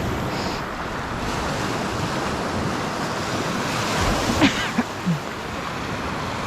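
Lake Superior waves washing in on the beach, a steady surf rush, with wind on the microphone. A few short, sharp knocks come about four and a half to five seconds in.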